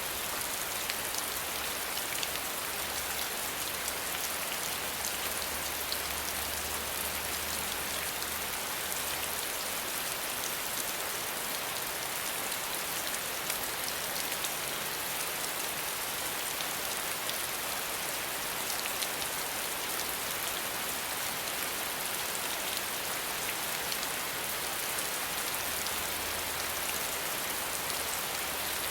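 Steady rain falling on a surface, an even hiss full of fine drop patter, with a faint low rumble that comes and goes.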